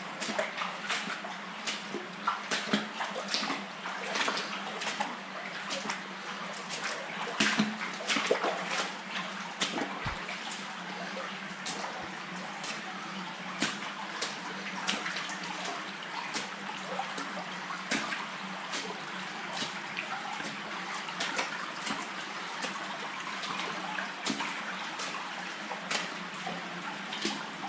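Footsteps splashing through shallow water inside a stone railroad culvert, irregular sloshing steps over a steady trickle of flowing water.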